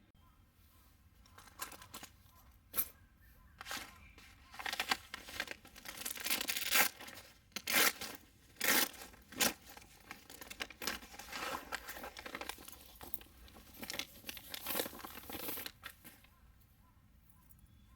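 Irregular crinkling and tearing, as of paper or thin plastic being crumpled and torn by hand, starting about a second in and stopping near the end.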